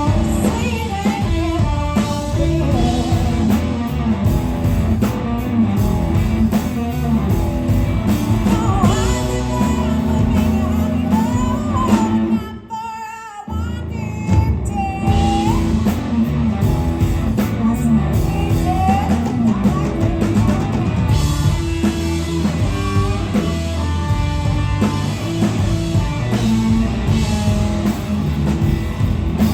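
Live blues-rock band playing loudly: electric guitar, drum kit and a singing voice. About halfway through the band drops out for about a second, then comes back in.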